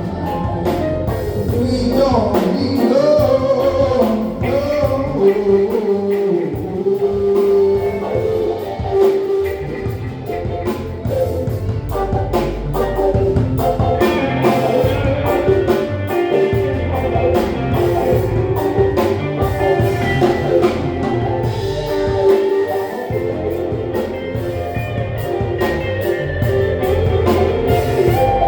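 Live band music with a sung lead vocal over electric guitar and a drum kit.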